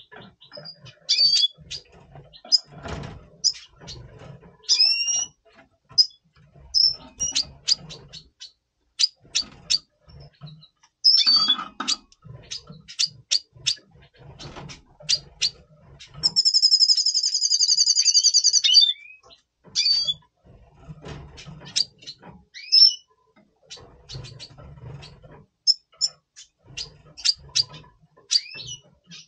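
Red siskins in breeding condition calling with many short, high chirps and upslurred notes. A fast buzzy trill runs for about two and a half seconds past the middle. Soft low rustles and knocks come and go underneath.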